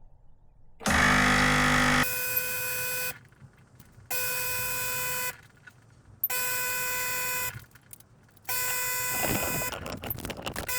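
Sage Bambino Plus espresso machine running its descale cycle. The water pump starts with a low hum, then cycles in four buzzing pulses, each about a second on and a second off. It sounds a bit dodgy, which the owner takes as a sign the cycle is not running right.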